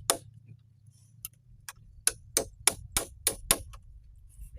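Sharp knocks in quick succession, about three a second, in a short run, then a pause of about a second, then a run of eight more, like a hand tool striking wood while a shelter is being built. A faint low rumble lies underneath.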